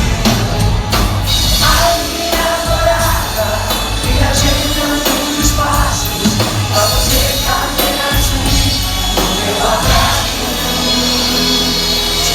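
A pop-rock band playing live with a lead singer, loud and steady, with a strong bass line under the vocals.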